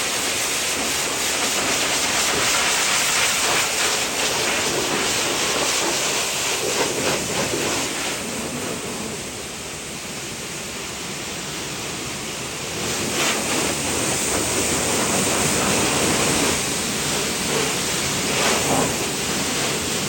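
Water spraying in a steady hiss, easing off for a few seconds in the middle.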